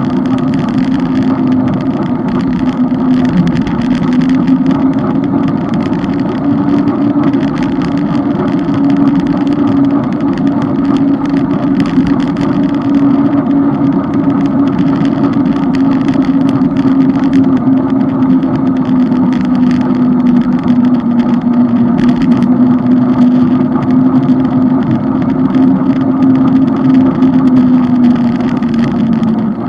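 A steady engine drone at a held pitch that drifts slightly and drops a little near the end, over wind and road noise from riding along.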